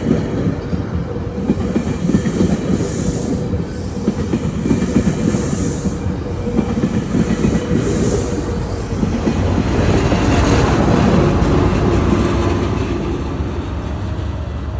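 GO Transit commuter train passing, its wheels clattering over the rail joints with a low rumble; the sound swells about ten seconds in, then eases off toward the end.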